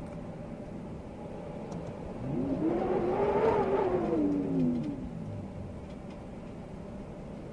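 A motor vehicle's engine rises in pitch for about a second and a half, then falls away over the next second or so, over a steady rush of wind.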